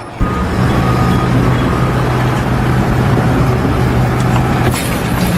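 Engine running steadily at a constant low pitch, coming in suddenly just after the start.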